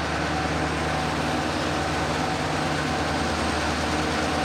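Diesel locomotive running, a steady engine drone with a low rumble and a few held tones over it.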